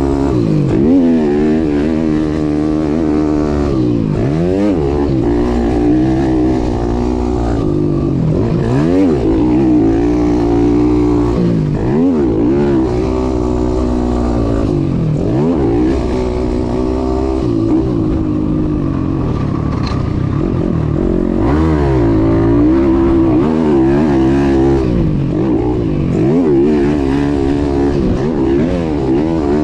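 YCF 190 pit bike's single-cylinder engine, heard from the rider's chest, revving up and dropping off again and again as the throttle opens and shuts through the gears and over jumps.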